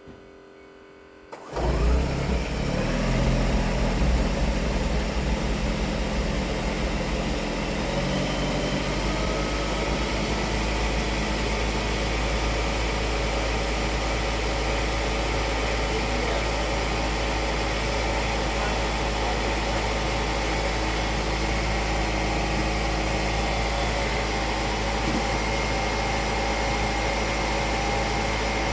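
2006 Ford Escape's engine starting about a second and a half in, running a little louder for a few seconds and then settling into a steady idle.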